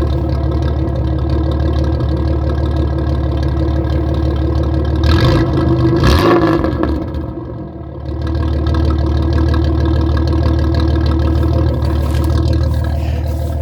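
Car engine with a new, really loud exhaust idling steadily, revved up once about five seconds in and falling back to idle.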